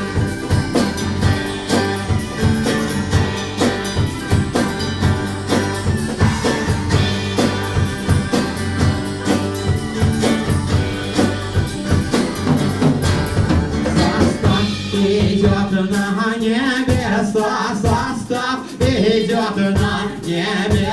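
Live rock band playing an instrumental stretch of the song, with a drum kit keeping a steady beat under guitars and bass; about three-quarters of the way through, a wavering melodic lead line comes to the fore.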